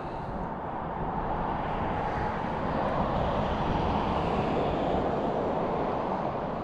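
Passing road traffic: a steady rushing drone of a vehicle that swells about a second in and holds.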